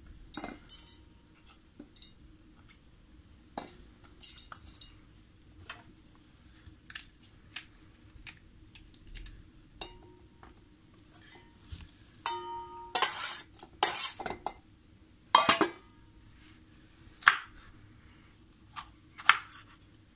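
Knife cutting a bell pepper on a chopping board: irregular knocks and scrapes, busier about two thirds of the way through, with a couple of short ringing clinks.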